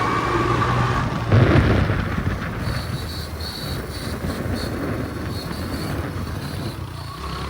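Dirt bike engine running, with a loud surge about a second in, after which it drops back to a rougher, quieter running noise.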